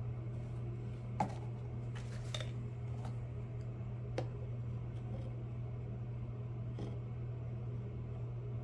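A few scattered light clicks and taps of small parts being handled, the sharpest about a second in and about four seconds in, over a steady low hum.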